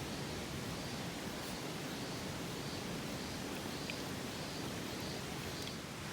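Steady rushing of a mountain stream, with a few faint high chirps over it.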